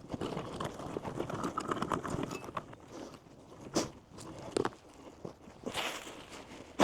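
Digging in a chicken run's leaf-composted soil: a crunching, scraping run through soil and leaf litter for about three seconds, then a few sharp knocks and a short scrape, with a loud knock at the end.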